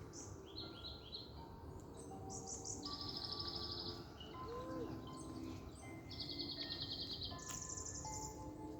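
Forest birds singing: several short, rapid high trills and chirps, one after another, over faint held notes of soft music.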